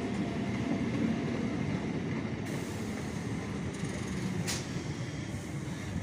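Local passenger train running at a railway station: a steady low rumble, with one brief sharp sound about four and a half seconds in.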